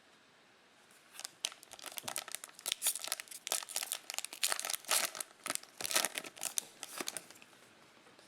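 Plastic wrapper of a trading-card pack being torn open and crinkled, a dense crackling starting about a second in and stopping shortly before the end.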